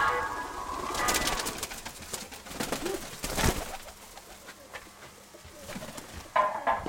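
Domestic pigeons cooing, with a low coo about halfway through among scattered clicks and rustles. Background music fades out at the start and comes back near the end.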